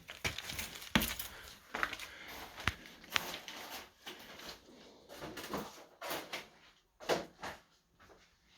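Scattered knocks, clicks and rustling from people moving about and handling things, with the sharpest knock about a second in.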